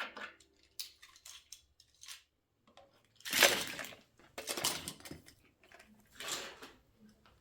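Small objects being handled: a string of light clicks, clinks and rustles, with a louder rustle lasting under a second about three and a half seconds in.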